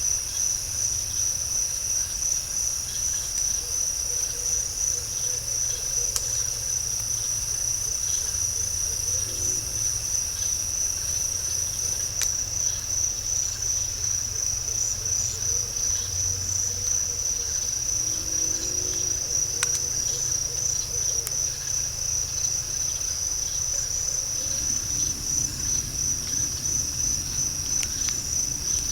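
Night insect chorus in a swamp: a steady, high, finely pulsing trill that never lets up. A few faint sharp clicks come through it.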